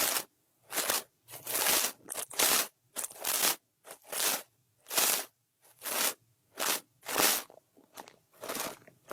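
Brush strokes across the microphone, an irregular run of short crisp swishes about one or two a second with brief gaps between them, over a faint steady low background hum.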